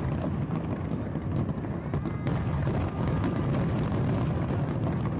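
A fireworks display with shells bursting in quick succession: a continuous deep rumble of booms with sharp cracks and crackle on top.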